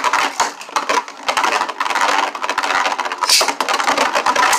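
Two Beyblade spinning tops (Lord Spriggan and Prime Apocalypse) whirring and clashing in a plastic stadium: a fast, continuous rattle of clicks and knocks, with a sharp hit about three seconds in.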